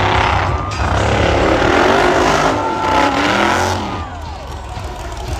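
Monster truck engine revving hard, its pitch swinging up and down, amid a loud wash of noise.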